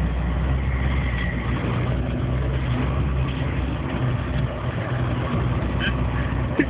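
Land Rover engine running steadily as it drives through deep snow, heard from inside the cabin as a low drone, with a brief knock near the end.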